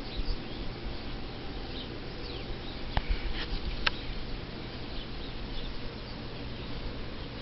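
Wild birds chirping outside an open window: scattered short, high chirps over a faint steady hum.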